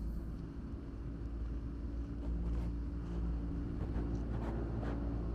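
An engine running with a steady low hum that grows louder near the end, with a few light clicks over it.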